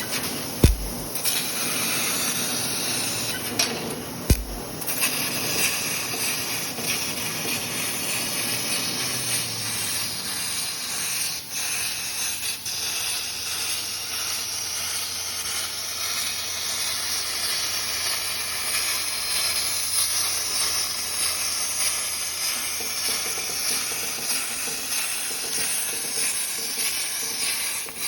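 Laser cutting machine cutting a sprocket out of sheet metal: a steady hiss of the cutting head's gas jet. Two short low thumps come about a second and about four seconds in, and a low hum joins about ten seconds in.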